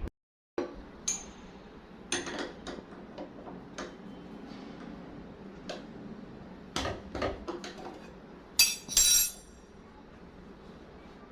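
Scattered clinks and knocks of hard objects being handled, with a louder, rattling clatter about nine seconds in.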